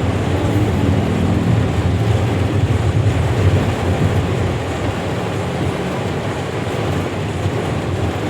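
Steady low rumble with an even hiss over it, from a vehicle in heavy rain.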